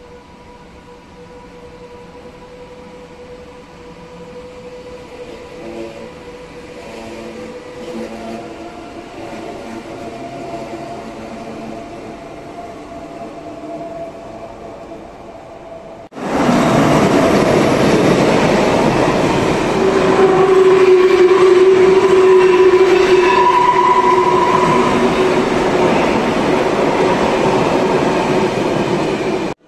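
SBB ICN tilting electric train moving off along the platform, its traction motors' whine rising in pitch. About 16 seconds in, a sudden cut to a much louder freight train of container flat wagons rushing past at speed: a loud rolling rumble with a ringing wheel squeal in the middle.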